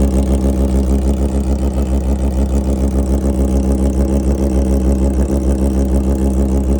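Kawasaki Ninja ZX-25R's 250 cc inline-four engine idling steadily at an even pitch, with no revving.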